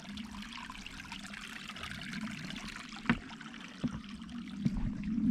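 Water from a small spring trickling steadily, with a few short sharp taps, the loudest about three seconds in.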